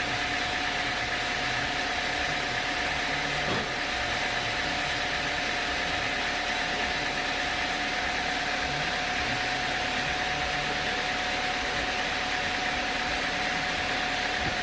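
Sawmill machinery running steadily: an even mechanical noise with a constant whine, and a brief knock about three and a half seconds in.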